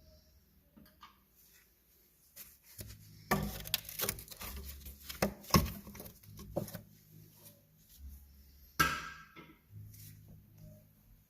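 Irregular clicks, knocks and clinks of tools and metal parts being handled, busiest a few seconds in, with a sharper knock near the end, over a faint low hum.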